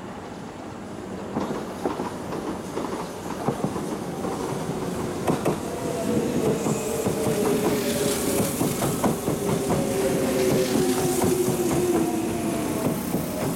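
Kintetsu express electric train pulling in and slowing alongside the platform: wheels clacking over rail joints, growing louder as it nears, with a whine that slides lower in pitch as it slows and a high hiss in the second half.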